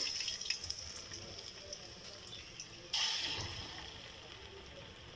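Chicken koftas shallow-frying in hot oil in a metal karahi, a faint steady sizzle. About three seconds in another kofta goes into the oil and the sizzle swells, then dies back down.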